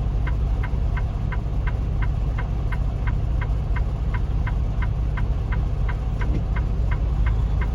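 Inside a tractor-trailer cab, the truck's diesel engine runs with a steady low rumble while a sharp tick repeats evenly about three times a second.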